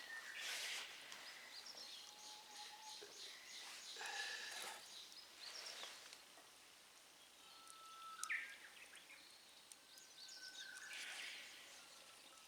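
Quiet outdoor ambience with faint, brief bird chirps and whistles, and a few short rustling handling noises.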